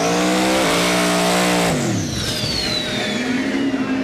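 Twin-turbo 427 LSX V8 drag car accelerating hard, its engine pitch climbing with a brief step about half a second in, then dropping away sharply a little before halfway as it runs off down the track, a high turbo whine falling with it.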